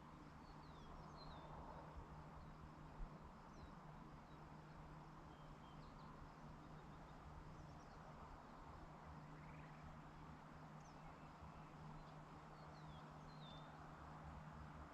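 Quiet rural evening ambience: faint, scattered short bird chirps of an unidentified species over a steady low hum and soft hiss, with a single sharp tick about three seconds in.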